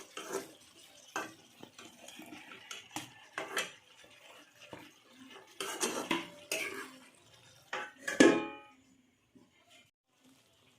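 Metal utensils clinking and scraping against pots and dishes, with one loud ringing clang about eight seconds in; after that it goes quiet.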